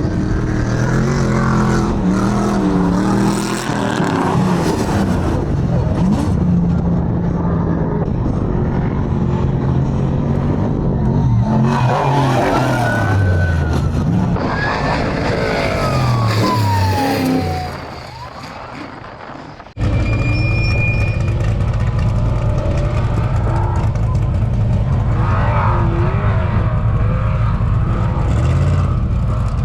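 Car engines running and revving, their pitch rising and falling in swells. About two-thirds of the way through the sound cuts off abruptly to a steadier, lower engine drone.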